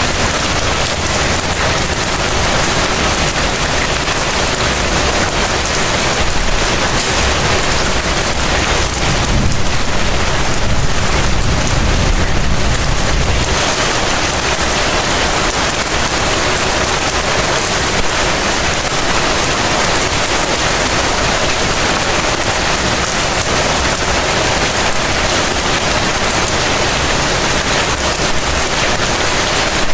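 Heavy rain falling steadily, a dense even hiss. A low rumble swells in about six seconds in and dies away about halfway through.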